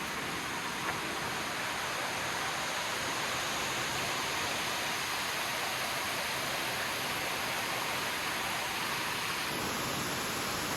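A waterfall rushing close by, a steady, even roar of falling water.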